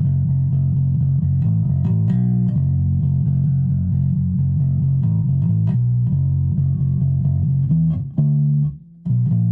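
Donner electric bass played through a Donner DBA-30 30-watt bass amp: a continuous bass line of plucked notes, breaking into a few short, separated notes near the end.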